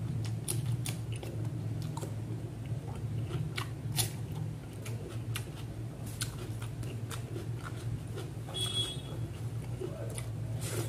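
Close-miked mouth sounds of someone chewing a mouthful of rice and catfish curry eaten by hand: frequent wet clicks and lip smacks, over a steady low hum.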